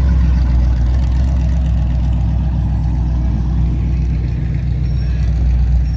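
A car engine idling steadily with a low, even pitch.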